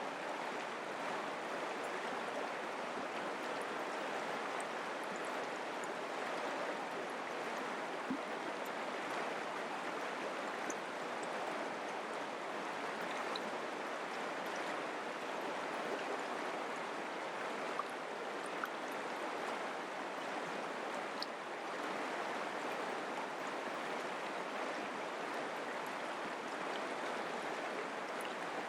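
Mountain creek water flowing and babbling steadily over rocks, with a few faint splashes and ticks.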